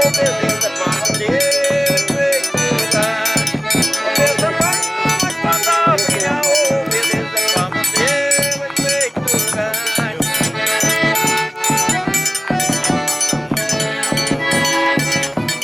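Live forró pé-de-serra played by a small band: an accordion melody with held notes over a quick, steady percussion beat with a shaker-like rattle.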